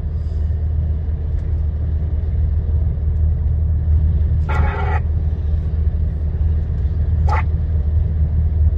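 Steady low drone of a lorry's engine and road noise heard inside the cab while driving. A brief, higher sound cuts in about four and a half seconds in, and a short click comes near the end.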